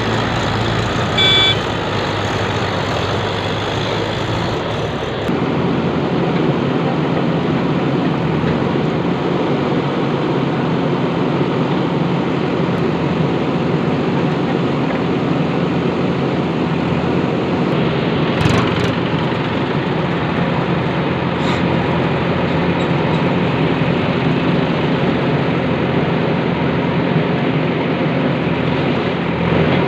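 Heavy diesel engine of a backhoe loader or tractor running steadily, with a short beep about a second in and a shift in the engine sound about five seconds in.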